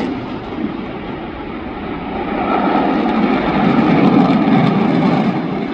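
Jet noise from a Boeing F/A-18F Super Hornet's two General Electric F414 turbofans as the fighter flies its display. The noise swells to its loudest about three to four seconds in, then eases.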